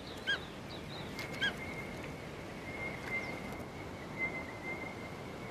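Quiet outdoor ambience with two short, sharp bird calls in the first second and a half, then a steady thin high-pitched tone that carries on underneath.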